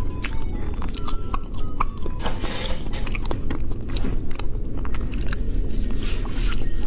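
Close-miked biting and chewing of a large, soft piece of fried pork intestine, with many small mouth clicks throughout.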